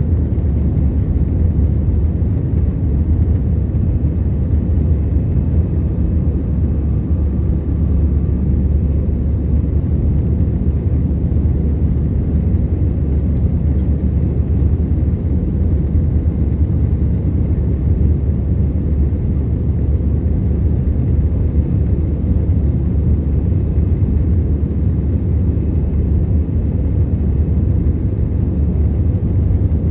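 Steady cabin roar of an Airbus A321-211 in climb, a deep, even rumble of its two CFM56 engines and the airflow around the fuselage, heard from a window seat.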